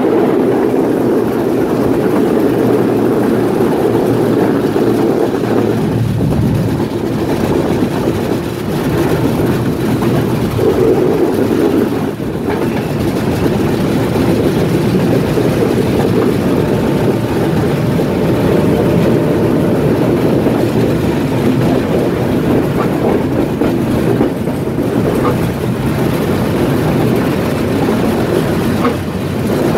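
Train running on the track: a steady, loud rumble with a few faint clicks in the second half.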